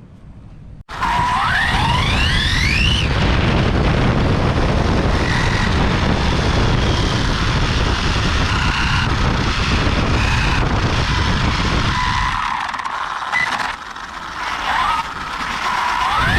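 Brushless electric motor of an RC drag car (BLX 2050kV on a 4S pack) spooling up with a rising whine about a second in, followed by a loud rush of wind and tyre noise during the high-speed pass. The noise drops off about twelve seconds in, and another rising whine starts near the end.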